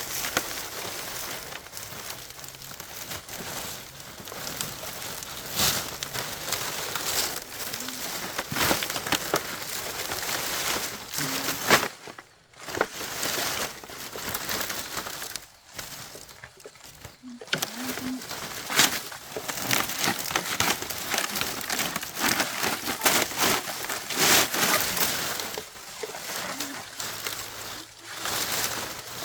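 Dry leaves rustling and crackling as they are handled and moved, with many small irregular crackles and a few brief pauses.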